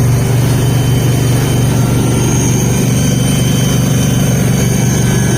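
Garden tractor engines running loudly and steadily, pulling against each other in a tractor tug-of-war.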